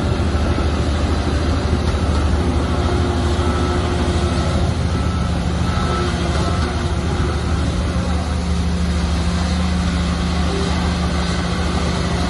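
Shantui crawler bulldozer's diesel engine running at a steady pitch, a continuous low drone.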